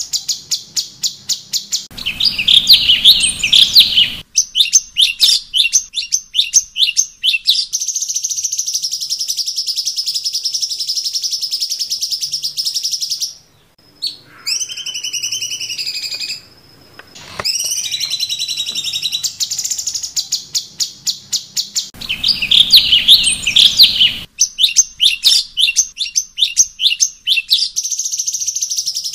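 Cucak cungkok (a bulbul kept as a songbird) singing loudly. Runs of rapid, sharp high notes alternate with a steady, high ringing trill, and the same sequence of phrases comes round again after about 20 seconds.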